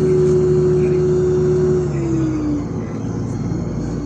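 LiAZ 5292 city bus under way, heard from inside: a steady engine and transmission drone with a held whine. About halfway through, the whine slides down in pitch and the drone eases off.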